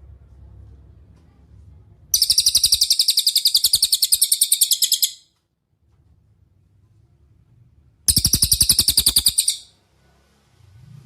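Cililin song: two loud, rapid, high-pitched trills of fast repeated notes, the first about three seconds long and the second about a second and a half, with a faint low rumble in the pauses between them.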